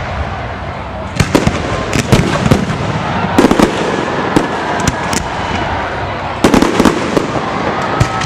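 Aerial fireworks bursting in quick clusters of sharp cracks and bangs, several a second, over a steady background din.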